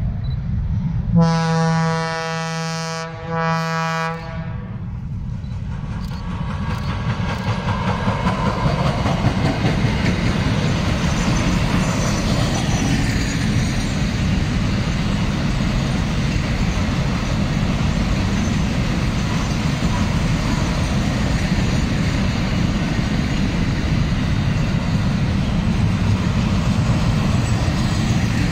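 Freight train horn sounding two blasts of about a second and a half each, a second or so in. Then the container train rolls past with a steady low rumble and wheel clatter that grows louder and holds.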